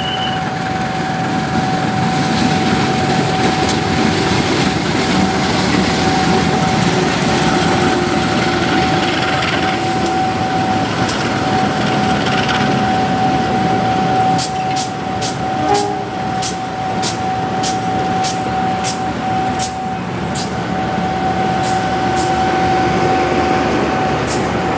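Diesel-electric locomotive and passenger carriage running, a steady rumble with a constant high tone. From about halfway through, a sharp regular clicking joins in, about two clicks a second.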